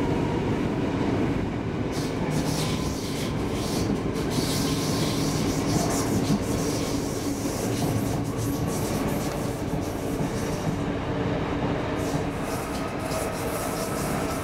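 Cabin noise inside an X10 electric commuter train pulling out of a station and picking up speed: a steady rumble of wheels on track under a humming motor tone, with a few light clacks over rail joints and points.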